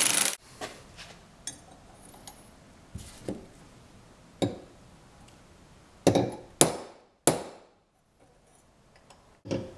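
Hand tools working on the steel head of a hula hoe: a short scrape at the start, then about six separate metallic knocks and clinks spread out over several seconds, some ringing briefly.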